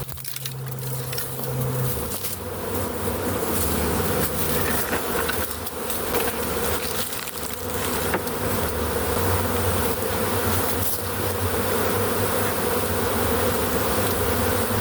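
A large swarm of honey bees buzzing, a dense steady hum that grows a little louder over the first few seconds.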